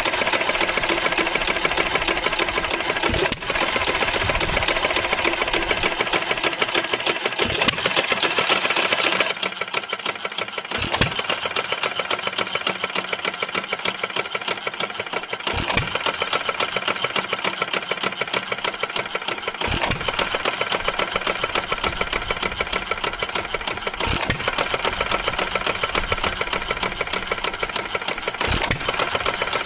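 1926 Stover KA hit-and-miss gas engine running: a fast, steady mechanical clatter with a sharp bang about every four to four and a half seconds.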